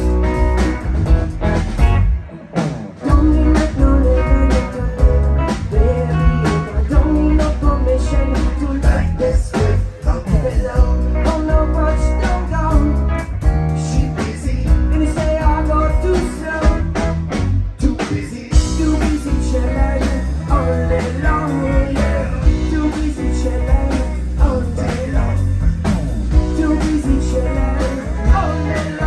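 Live rock band playing: electric guitar, bass and drums with a singer. The band drops out briefly about two seconds in, then comes straight back in.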